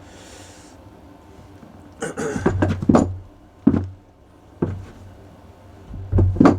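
Knocks and clunks from handling a heavy electrical cable and its crimped ring lugs on a workbench, about five of them with dull low thuds, the first about two seconds in and the loudest near the end.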